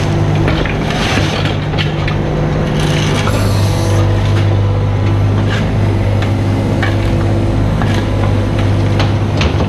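Mini excavator's diesel engine running steadily under work, with scattered cracks and knocks of the bucket crunching into the ground.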